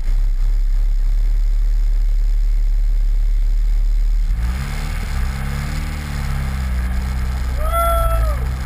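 Turbocharged Honda Civic engine idling with a steady low hum, then its note rising and falling as the car pulls away at low speed from about four seconds in. Near the end a short whistle rises and falls.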